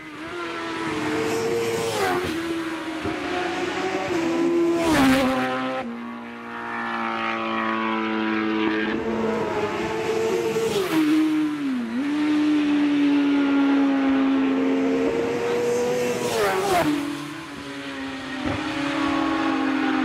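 Classic superbike racing motorcycles running at speed past the roadside, their engines changing pitch through gear changes, with several bikes passing close, loudest about five seconds in and again near seventeen seconds.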